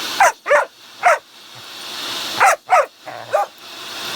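Puppy barking at a vacuum cleaner: six short, sharp barks falling in pitch, in two quick bursts of three, over the steady drone of the running vacuum.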